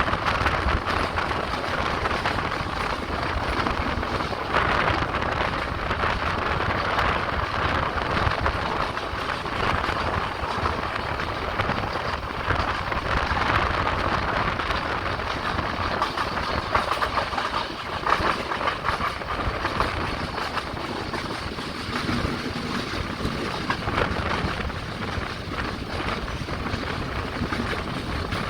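Express passenger train running along the track: a steady rush of wheels on rails with a constant rattle and small irregular clicks.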